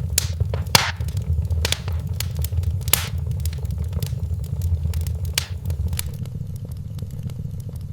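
Wood fire burning in a fireplace: frequent sharp crackles and pops over a low, steady rumble. The pops thin out near the end.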